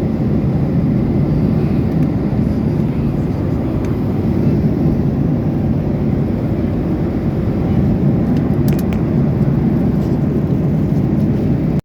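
Cabin noise aboard a Boeing 737-800: a steady low rush of engine and airflow noise, even in level throughout.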